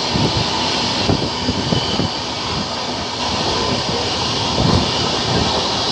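Express passenger train running at speed, heard from inside the coach: a steady rush of wind and rolling noise, with irregular low knocks from the wheels on the track.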